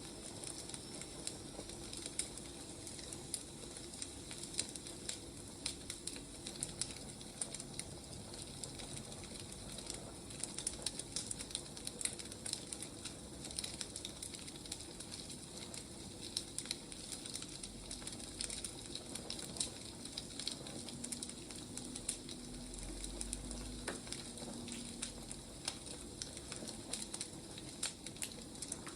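Firewood burning, a steady hiss with frequent small crackles and pops.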